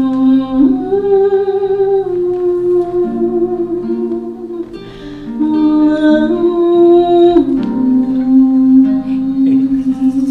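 Live music: a voice humming or singing long held notes that step from one pitch to another, with plucked guitar underneath.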